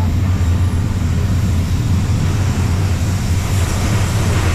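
Steady low rumble and rushing noise of a BLS car-shuttle train under way, heard from inside a camper van riding on one of its open wagons with the window down.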